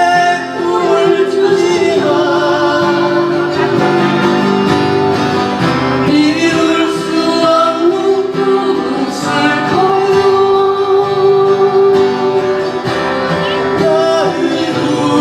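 A singer performing a Korean ballad with acoustic guitar accompaniment.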